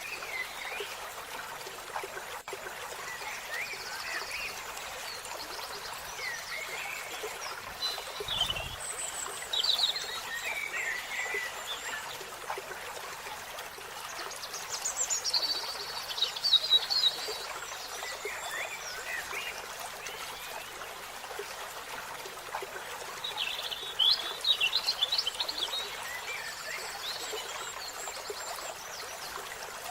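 Several wild birds calling in short bursts of high chirps and quick trilled series, over a steady background hiss; the loudest bursts come about halfway through and again later.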